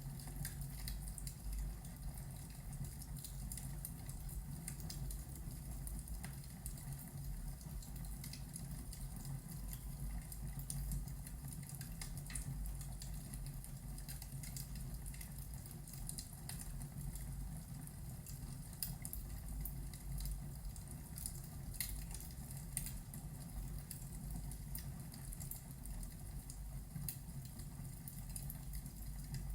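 Fireplace crackling with many small irregular pops, over a steady low rumble and the patter of rain from a thunderstorm ambience.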